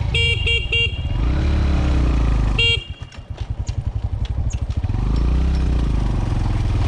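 Motorbike horn beeping three times in quick succession, then once more a couple of seconds later, over a steady low engine rumble. After the last beep comes a rapid pulsing motor sound for about two seconds. The motorbike has broken down and won't go.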